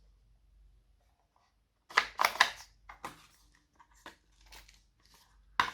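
Slime being squished and stretched by hand, giving a cluster of sharp, wet crackling pops about two seconds in, softer ones after, and another sharp pop near the end.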